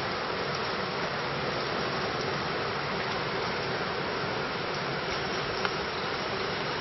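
Steady rain from a thunderstorm, an even hiss with scattered faint ticks of drops.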